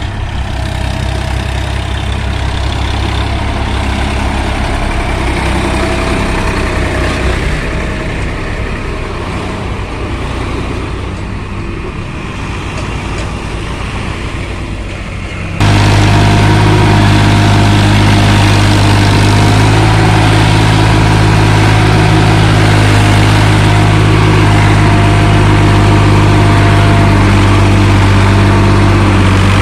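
Diesel tractor engine running steadily under load. About fifteen seconds in the sound cuts abruptly to a louder, steadier low engine drone.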